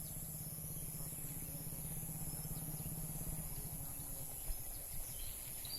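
Background ambience without speech: a steady low hum that stops about three and a half seconds in, under a constant high-pitched whine, with a few faint clicks near the end.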